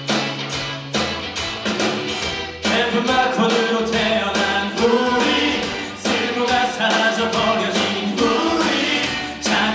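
A group of voices singing together over a strummed guitar, with the voices coming in about two and a half seconds in.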